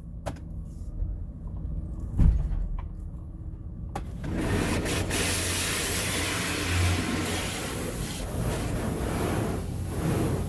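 Low steady hum inside the van with a single thump about two seconds in. Then, about four seconds in, the touchless car wash's high-pressure water spray starts hitting the van, heard from inside as a steady loud rushing hiss.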